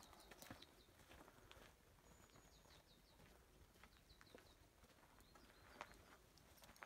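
Near silence, with faint high bird chirps in several quick runs and a few soft ticks of footsteps on stony ground.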